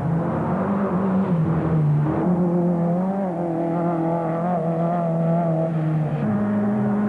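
Off-road racing vehicle's engine running hard and continuously, its pitch wavering with the throttle and stepping up about six seconds in.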